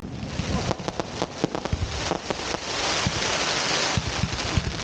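Fireworks crackling: a rapid, irregular string of sharp pops and cracks, thickening into a dense hissing crackle in the middle, like the crackle of glitter shells.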